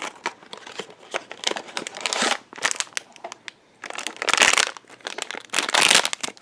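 Blind-box packaging being opened by hand: crinkling and crackling of the wrapping, with two louder stretches of rustling, about two-thirds of the way through and again near the end.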